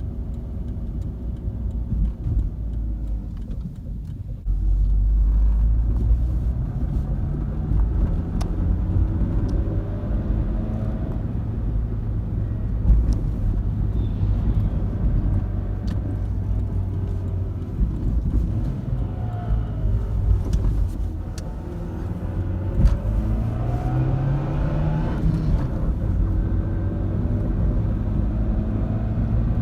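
Suzuki Swift 1.3-litre car being driven, heard from inside. The engine runs steadily and its pitch climbs twice as the car accelerates, once early on and once past the middle, with a few faint clicks.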